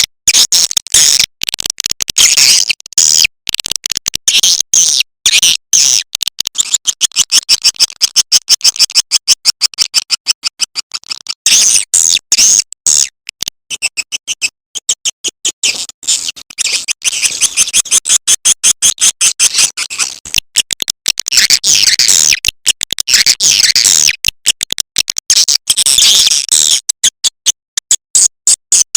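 Edible-nest swiftlet calling track: dense, rapid high-pitched chirping trills that come in long runs with short breaks. This is a swiftlet lure call, played to attract swiftlets into a nest house.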